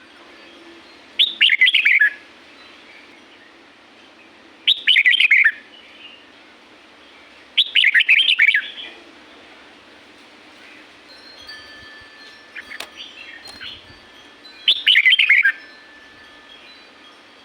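Red-whiskered bulbul singing: four short, loud phrases, each about a second long and falling in pitch, a few seconds apart, with softer chirps between the third and fourth phrase and a faint steady hum underneath.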